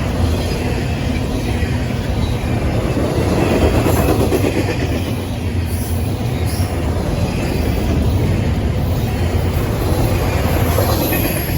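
Freight train rolling past, a steady loud rumble of its cars' wheels on the rails that swells and eases slightly.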